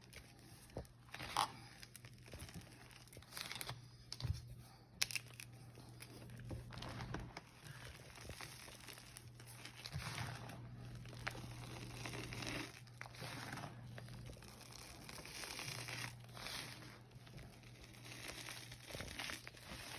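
Gym chalk being crushed and crumbled into powder: an irregular run of crunches and crumbling crackles.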